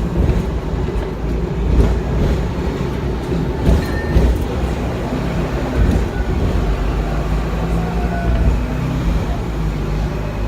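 Hong Kong double-decker electric tram running, heard from on board: a steady low rumble of wheels and motor on the rails, with rattles and a few sharp clicks, the sharpest about four seconds in.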